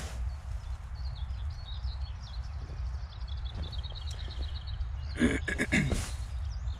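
Small birds chirping and trilling high over a steady low rumble outdoors. About five seconds in, a louder, harsher call sounds briefly, twice in quick succession.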